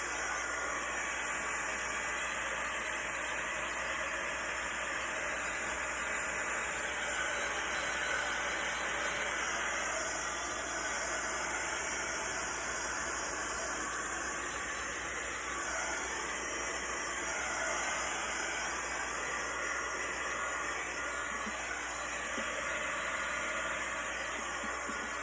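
Heat gun blowing a steady hiss of hot air over wet acrylic pour paint, used to pop air bubbles and bring up cells.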